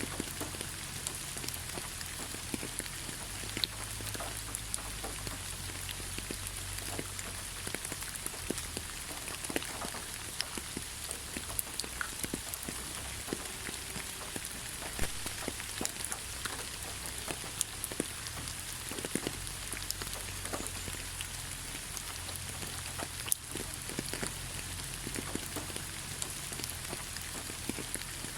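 Steady rain falling on a surface: an even hiss with many individual drops ticking sharply.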